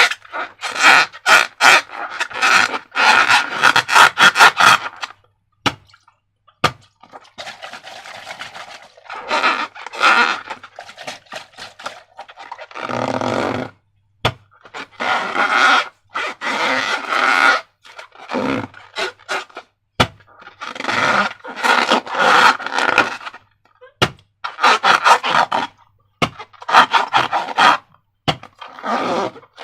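Slime being worked by hand: sticky, crackling squelches in bursts of a few seconds, with short pauses between them.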